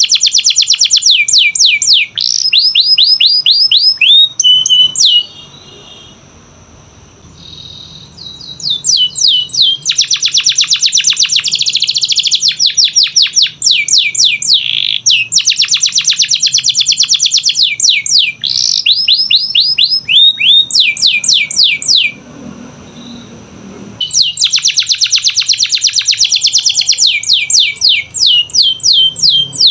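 Domestic canary singing: rapid high trills and rows of quickly repeated sweeping notes in long phrases, broken by two short pauses of a few seconds.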